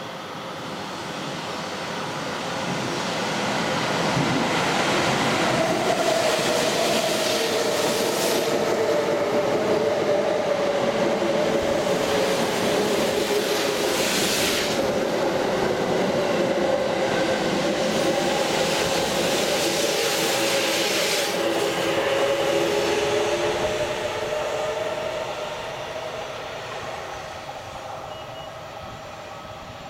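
A Kintetsu train made of coupled 8000, 8600 and 1233 series cars running through a station at speed without stopping. The wheels and running gear build to a loud rumble over the first few seconds, hold steady with a whine in it for about twenty seconds as the cars go by, then fade as the train runs off.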